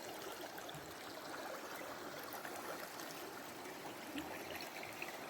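Running water making a steady, even rush.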